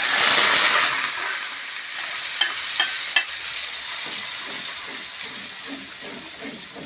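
Onion paste sizzling loudly in hot oil in an aluminium kadai as it is stirred with a steel ladle, strongest at first and easing slightly after about a second and a half. Three quick clicks come in close succession a little before halfway.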